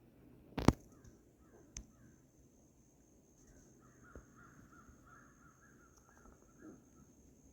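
Birds calling in the woods: a faint run of short repeated calls through the middle. A sharp knock about a second in is the loudest sound.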